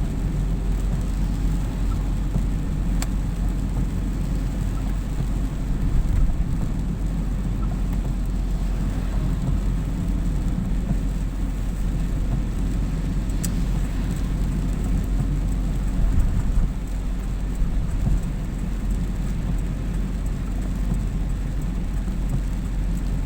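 Steady low rumble of a car being driven, heard from inside the cabin, with a couple of brief louder bumps.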